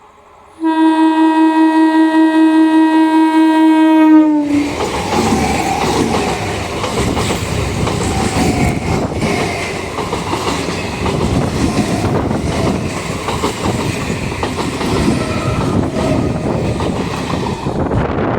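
A passing Indian Railways train: its horn sounds in one long, loud blast of about three and a half seconds, the pitch dropping at the end as the locomotive goes by. The train then rushes past, the wheels clattering rhythmically over the rail joints.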